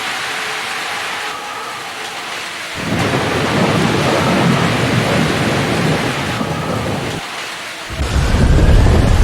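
Heavy cloudburst rain pouring. A deep rumble cuts in suddenly about three seconds in, fades briefly near the end, then comes back louder.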